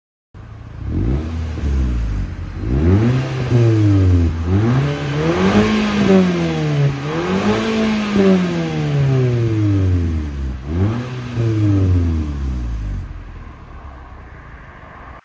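Car engine revved several times through its original exhaust, each rev rising and falling in pitch, then dropping back toward idle near the end.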